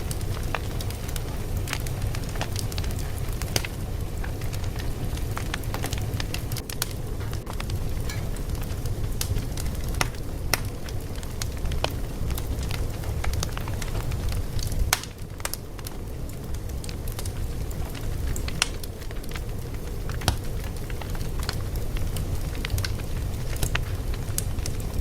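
Fire crackling: irregular sharp pops and snaps over a steady low rumble, with a brief quieter spell and a cluster of pops about halfway through.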